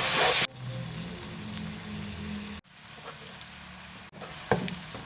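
Minced beef frying in a non-stick wok with shallots and garlic: a loud sizzle with spatula stirring knocks that cuts off abruptly about half a second in. A much fainter sizzle follows, with a single tap near the end.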